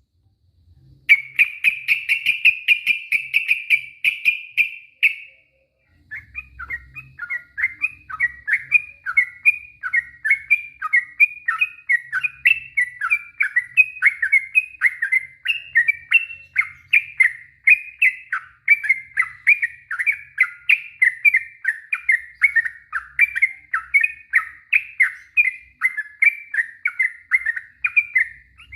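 Sooty-headed bulbul (trucuk) singing: a rapid trill for about four seconds, then after a short pause a long run of quick repeated chattering notes, about three a second.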